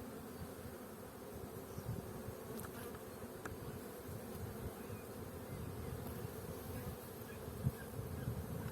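A honeybee colony humming: the steady buzz of many bees around an opened hive.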